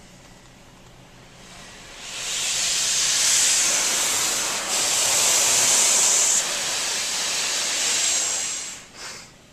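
High-pressure water jets from a touchless car-wash arm spraying onto the car, heard from inside the car as a loud, even hiss. It starts about two seconds in, runs for about six seconds and dies away near the end, likely the spot-free rinse pass.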